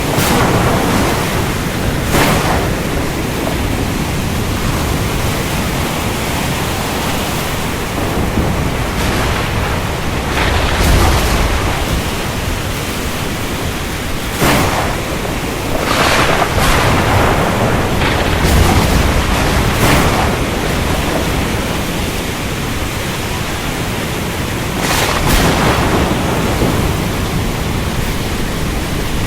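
Ocean storm: a steady, loud rush of surf and rain, broken by several sharp cracks of thunder and spells of deep, low rumbling.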